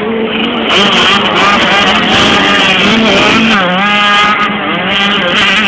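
Motocross bikes' engines revving, their pitch rising and falling as the throttle is worked, more than one engine note overlapping throughout.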